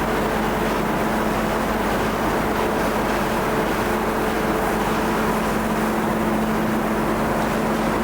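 Factory machinery running steadily: a continuous mechanical noise with an even hum.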